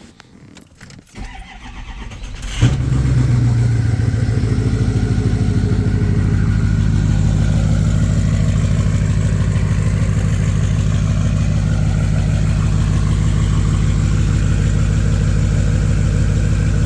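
2005 Ford F-250's 6.0L Power Stroke V8 turbodiesel, straight-piped from the turbo back, cold-started: it cranks for a second or two, fires about two and a half seconds in, then settles into a steady idle.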